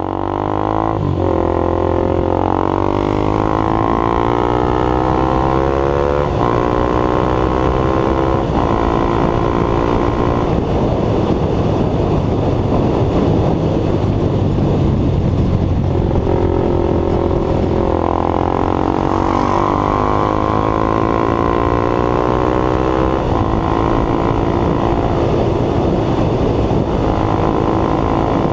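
KTM Duke 390's single-cylinder engine through a MotoTorque free-flow exhaust, accelerating through the gears: the pitch climbs and drops back at each upshift, several times over, with a stretch of steadier, noisier running in the middle.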